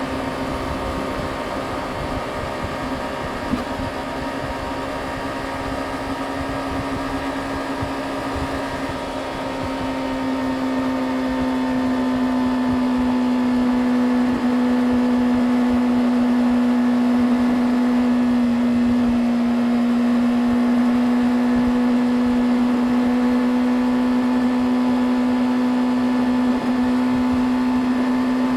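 Yamaha YZF-R6's inline-four engine running at a steady cruise with wind rumble underneath; about ten seconds in the engine note dips slightly and gets louder, then holds steady.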